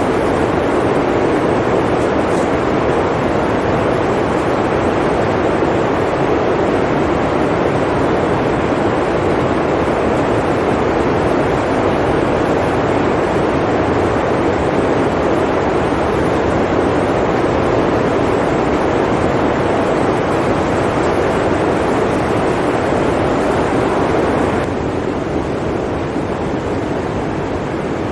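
Blizzard wind blowing as a steady, dense roar, dropping abruptly to a slightly quieter, duller level near the end.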